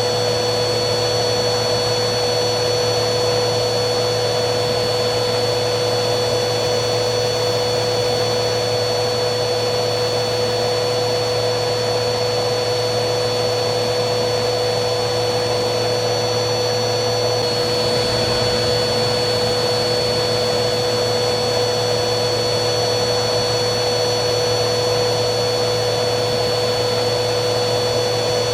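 Vacuum cleaner motor running steadily: a constant rushing noise with a steady hum and a high whine. A little past halfway, the high whine shifts slightly.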